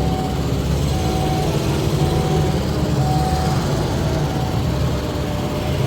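Motor vehicle engine running steadily, a continuous low rumble.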